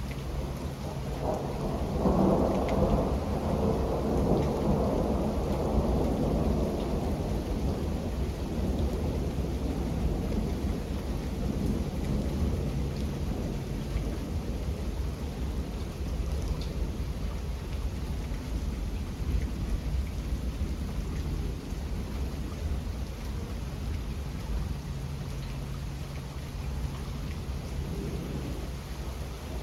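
Steady rain falling, with a long rumble of thunder that swells about two seconds in and slowly fades away over several seconds.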